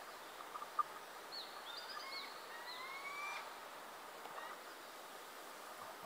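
Faint bird calls in woodland: a few sharp ticks within the first second, then a cluster of short high chirps and a slow rising whistled call about two to three seconds in, over steady outdoor background noise.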